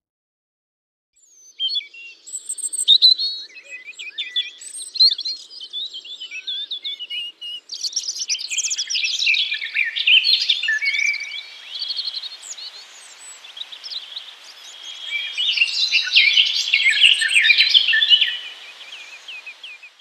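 Songbirds chirping and singing, many short calls overlapping in a busy chorus, starting about a second in.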